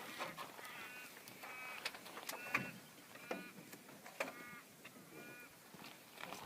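A bird calling faintly, six short honk-like notes about once a second, with a few faint clicks in between.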